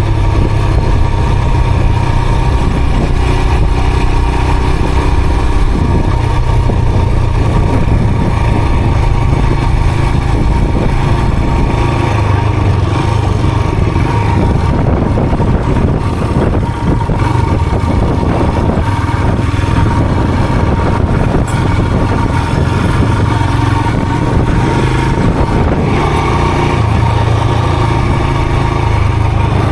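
A motor vehicle's engine running steadily on the move, its note shifting slightly a few times.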